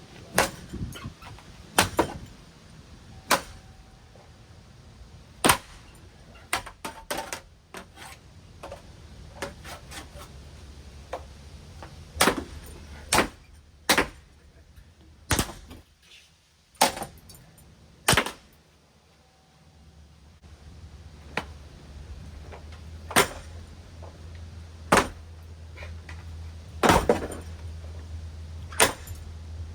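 Sharp whacks, about fifteen at irregular intervals, as a running Hunter Coastal Breeze Plus ceiling fan is struck and broken. Under them is a low hum from the fan motor, which dies away briefly midway and then returns.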